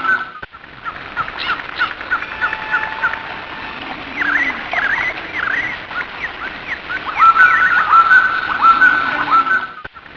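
Birds chirping and calling in quick repeated notes over a steady background hiss. The sound drops out briefly just after the start and again near the end.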